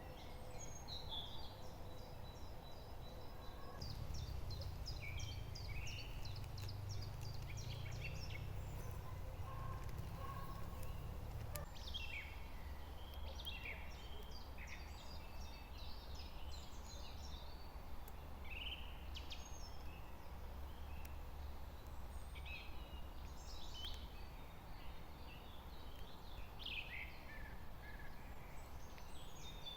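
Several wild birds singing and calling with short chirps, quick trills and falling whistled notes, over a low steady rumble.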